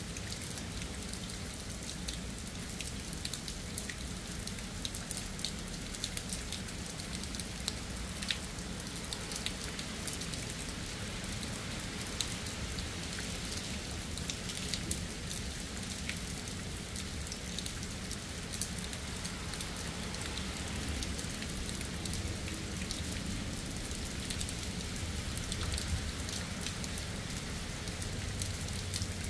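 Steady rain falling, with many individual drops ticking close by, over a low steady rumble.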